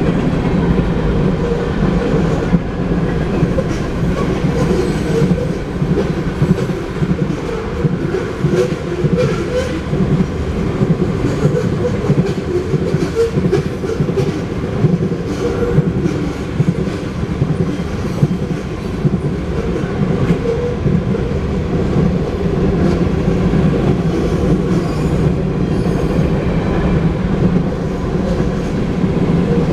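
Freight cars of a long manifest train rolling past at speed, steel wheels clacking steadily over the rail joints.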